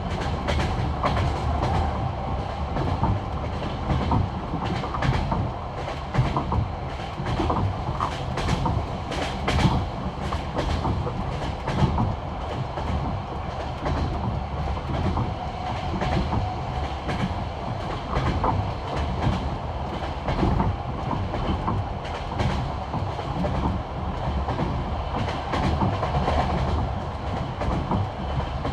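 Passenger train running at speed on jointed rail: the wheels clickety-clack over the rail joints in repeated knocks above a steady rumble.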